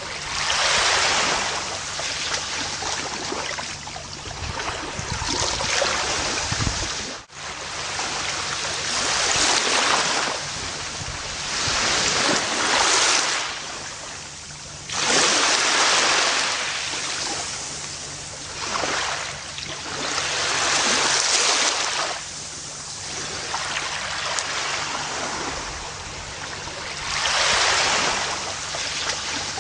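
Gentle ocean waves washing onto a beach, the surf swelling and easing every few seconds. There is a sudden brief dropout in the sound about seven seconds in.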